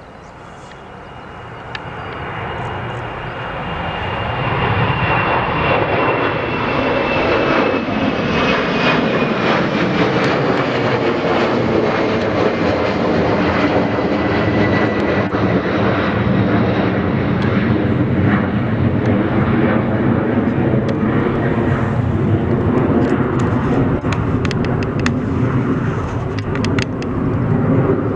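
Jet airliner engines growing louder over the first five seconds, then staying loud, with a thin high whine that slowly falls in pitch.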